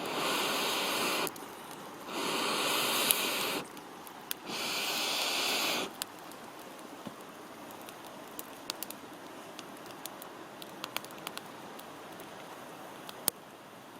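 Campfire crackling with scattered sharp pops, after three loud rushes of noise, each about a second and a half long, in the first six seconds.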